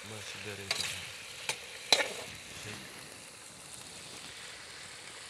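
Chicken pieces sizzling in a black metal karahi (wok) over a wood fire, stirred with a perforated metal ladle. The ladle knocks against the pan three times in the first two seconds, the last knock the loudest, and then the frying goes on steadily.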